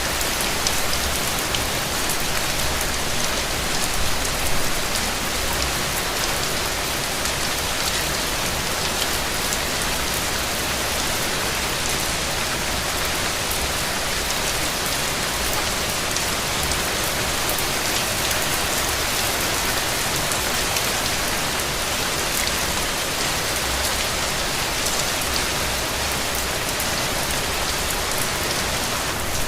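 Steady rain falling in a constant hiss, with individual drops ticking throughout.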